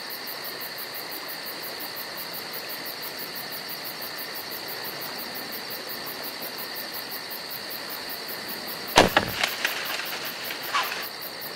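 A steady dusk chorus of crickets and other insects, with a fast pulsing high trill over level ringing tones. About nine seconds in comes one sharp crack, the shot of a hunting bow, followed by a few lighter knocks and rustles.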